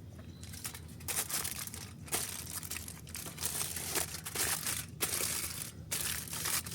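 Aluminium foil crinkling and crumpling as it is pressed down over the top of a pizza pan, in a series of rustling bursts with short pauses between them.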